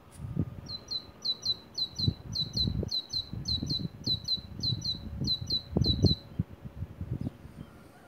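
A bird repeating short high chirps, each dropping in pitch and often in quick pairs, about two a second for some five seconds before it stops. Irregular low rumbling thumps sound underneath.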